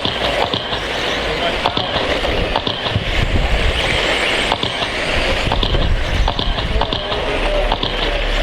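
Several 13.5-class brushless electric RC stadium trucks racing on a dirt oval: a steady whir of motors and tyres on dirt, with scattered sharp clicks and knocks.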